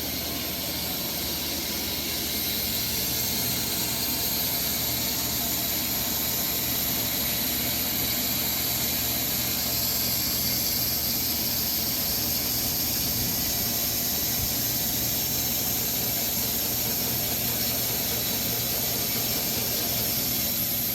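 Band sawmill running steadily as its blade cuts through a Bastogne walnut log: a constant hiss with a high whine on top, cutting off suddenly at the end.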